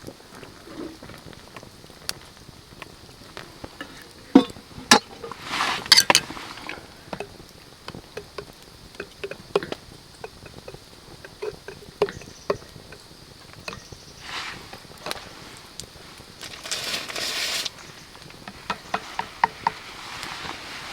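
Rain dripping and pattering on a camp tarp: scattered sharp taps over a faint hiss, with a few short hissing rushes about six seconds in and again past the middle.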